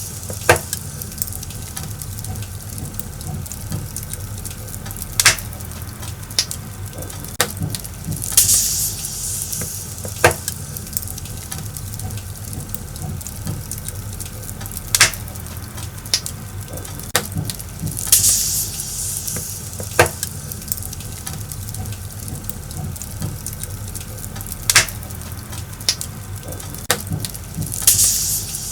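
Wood fire burning: a steady low rumble and hiss, with sharp crackling pops at irregular intervals. A louder hissing flare comes about every ten seconds.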